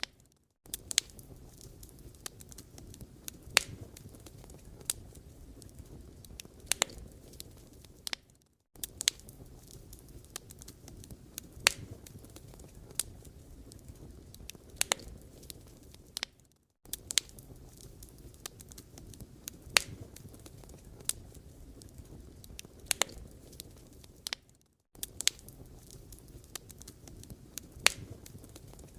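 Firewood burning: a low steady rush with irregular sharp crackles and pops. The sound drops out briefly about every eight seconds.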